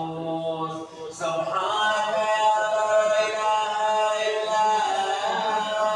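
Unaccompanied male voice chanting an Arabic supplication in a melodic, drawn-out line, with long held notes.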